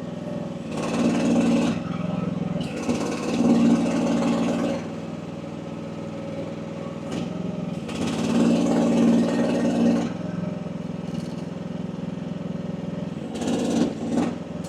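Small AGT WH12R mini excavator's engine running under hydraulic load as the machine is worked, its relief valve set to 2100 psi. The sound swells louder in several stretches, about four times, as the hydraulics are worked, and drops back to a steady run in between.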